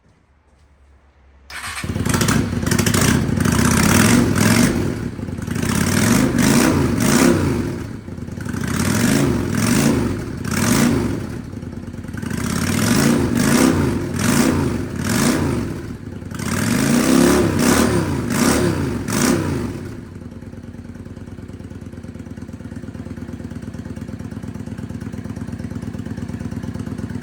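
Honda Steed 400 motorcycle's V-twin engine starting about a second and a half in, then revved up and down repeatedly, about eight times, before settling into a steady idle for the last seven seconds.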